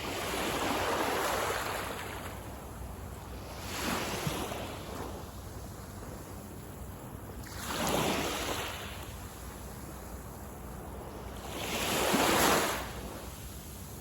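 Small waves breaking on a sandy beach, a wash of surf swelling and fading about every four seconds, the one near the end the loudest. A low wind rumble on the microphone runs underneath.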